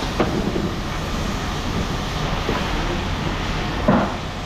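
Steady rumble of heavy machinery running, with a few short knocks and a louder clank nearly four seconds in.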